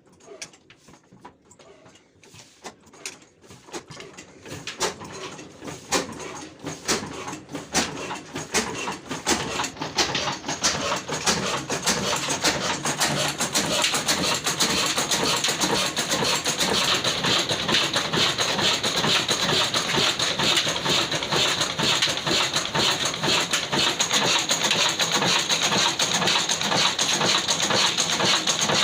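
Old black diesel engine starting: a few slow separate knocks, then firing strokes that come faster and louder until, about twelve seconds in, it runs steadily at speed.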